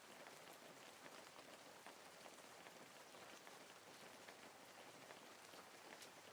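Faint, steady rain falling, an even hiss dotted with the patter of individual drops.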